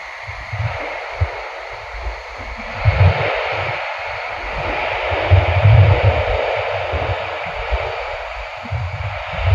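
Running noise inside a Nishi-Kyushu Shinkansen Kamome train at speed: a steady rushing hiss that grows louder about three seconds in, over uneven low rumbling.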